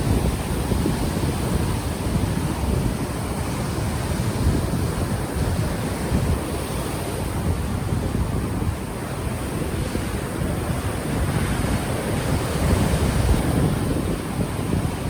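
Ocean waves washing onto the shore, with wind buffeting an unshielded microphone in a heavy low rumble. The sound swells and eases gently, with no single distinct wave break.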